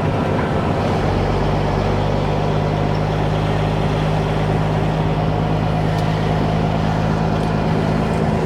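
Truck engine running steadily at low speed, heard from inside the cab, with a steady hiss over it. A low rumble grows stronger about a second in.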